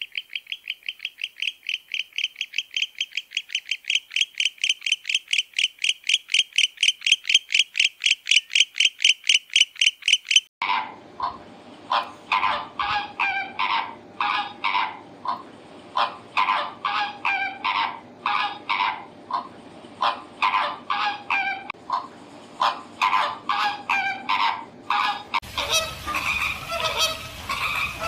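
A white-faced owl calling in a rapid run of short, high hoots that grow louder, cut off suddenly about ten seconds in. Flamingos follow, honking in a fast, goose-like chatter, and near the end ducks call in a denser, noisier stretch.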